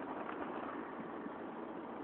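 Steady wind blowing, an even rushing noise with no sharp flaps or gusts standing out.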